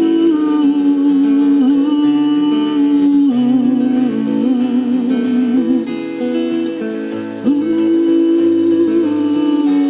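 Acoustic guitar playing, with a wordless hummed vocal line held over it, wavering in pitch. It grows quieter about six seconds in, then comes back strongly a second or so later.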